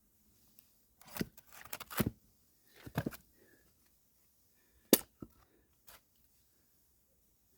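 Firewood being split and handled: a series of sharp wooden knocks and cracks in uneven groups, the loudest a single crack about five seconds in.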